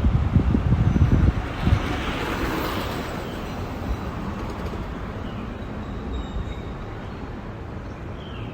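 Wind buffeting the microphone in gusts for the first second or so, then a rushing noise that swells and fades about two to three seconds in, under steady outdoor ambience with a few faint bird chirps.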